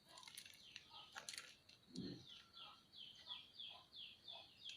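A small bird chirping faintly and repeatedly: short, high, falling chirps, about two to three a second, running steadily through the second half.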